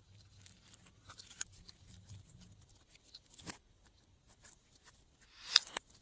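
Slime-making materials being handled by hand: quiet scattered crackles and clicks, with a sharp pop about three and a half seconds in and a louder one near the end.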